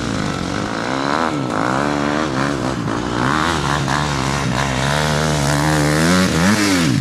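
Dirt bike engine revving, its pitch rising and falling several times, with a sharp rise and drop near the end.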